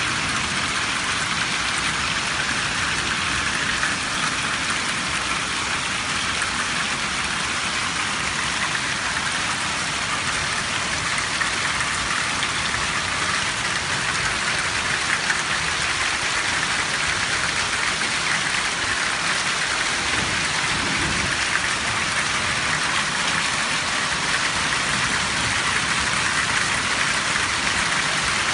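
Heavy rain pouring steadily, a dense even hiss without a break.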